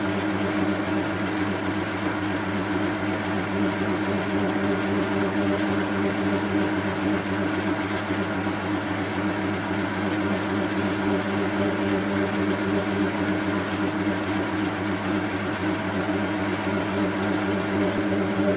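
Metal lathe running steadily with a constant motor hum, turning a freshly cast brass piece to clean off its outer crust.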